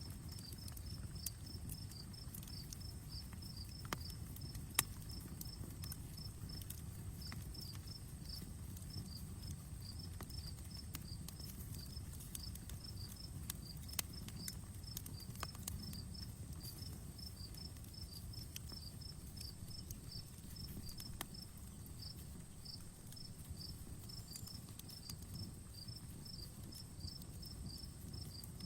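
Wood fire crackling, with scattered sharp pops over a low steady rumble of burning; one pop about five seconds in is the loudest. A cricket chirps fast and evenly throughout.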